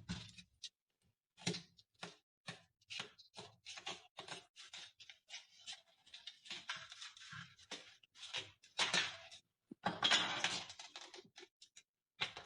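A run of irregular light clicks, taps and knocks of small objects being handled, with a longer, denser stretch of clatter about ten seconds in.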